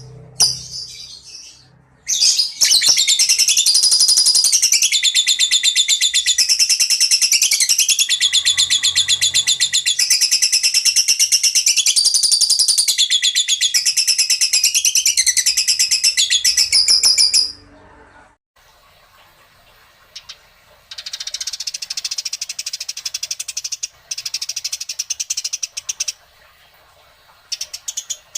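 Songbird song recording of the kind used to tutor caged birds: a loud, fast, continuous trilling chatter that shifts pitch every second or two, lasting about fifteen seconds, then stops. A softer, scratchy rapid chatter follows in short bursts near the end.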